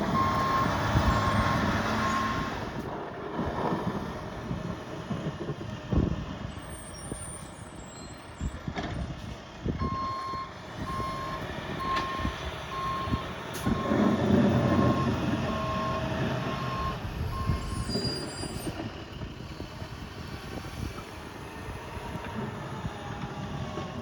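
A heavy vehicle's reversing alarm beeping steadily, about one and a half beeps a second, for the first couple of seconds and again from about ten seconds in for several seconds, over a continuous engine rumble and wind noise.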